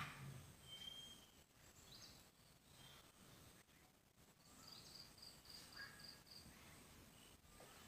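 Near silence: quiet room tone with faint bird chirps in the background, including a short whistled note about a second in and a quick run of about eight high notes around five to six seconds in.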